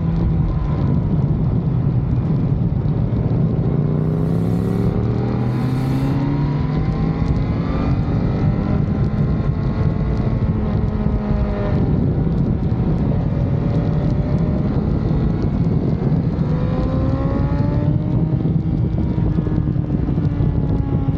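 BMW S1000RR sport bike's inline-four engine under hard riding on a race track, its pitch climbing and dropping again and again as it accelerates and shifts, over a steady low rumble.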